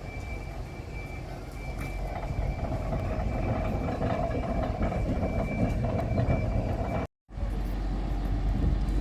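Electric tram running slowly on depot track, a steady rumble with a thin, steady high whine over it. About seven seconds in the sound cuts out for a moment and comes back as a heavier low rumble.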